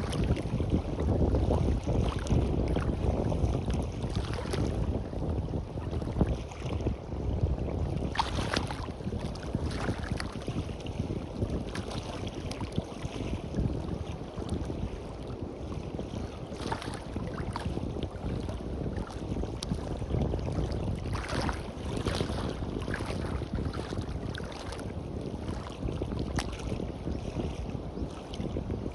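Sea waves washing onto a beach in short splashes, with wind rumbling on the microphone, the rumble strongest in the first few seconds.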